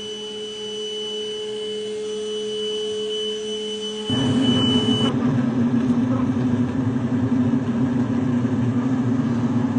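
A honeybee colony exposed in an opened wall, buzzing as a steady low hum. About four seconds in it turns abruptly to a much louder, denser, rougher buzz.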